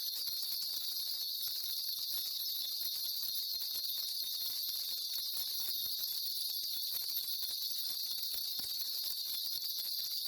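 A shaman's ritual bell rattle shaken without pause, giving a steady, dense, high jingling.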